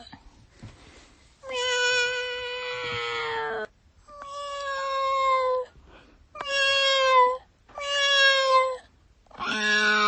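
Domestic cat meowing five times, with short pauses between the calls. The first meow is drawn out to about two seconds, the later ones are shorter, and each holds steady or falls slightly in pitch.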